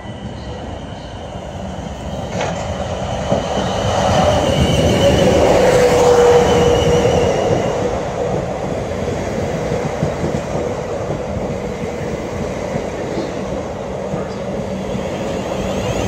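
A Class 444 Siemens Desiro electric multiple unit comes into the station and runs along the platform. The rumble of wheels on rails grows louder over the first six seconds and stays loud. A high whine and a lower tone that falls slightly are heard around the loudest point.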